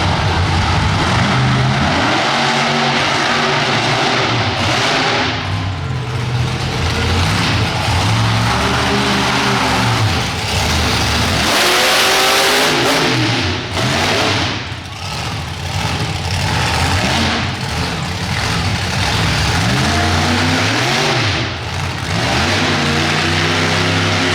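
Monster truck engine revving hard again and again, its pitch rising and falling. About halfway through there is a loud, noisy burst lasting a second or two.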